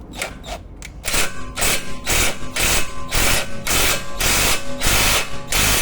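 Power tool run in short repeated bursts, roughly two a second, tightening a self-locking nut on the tie rod end.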